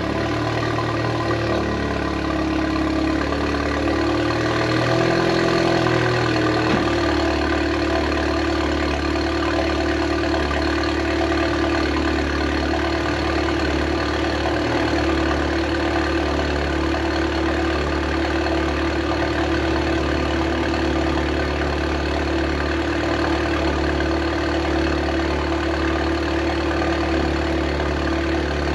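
Audi S3 turbocharged four-cylinder idling through a new aftermarket cat-back exhaust just after a warm start. It swells briefly about five to seven seconds in, then settles into a steady idle.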